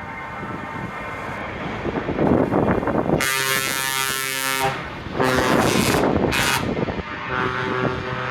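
Truck air horns blasting over the running engines of passing lorries: one long blast of about a second and a half, then a shorter one and a brief toot.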